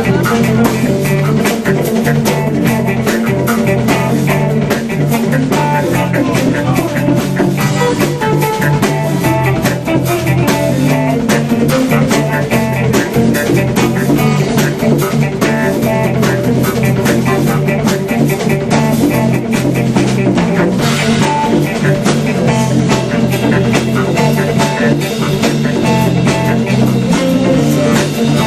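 Live jam band playing an instrumental, improvised passage: guitar over bass guitar and drum kit, loud and steady throughout.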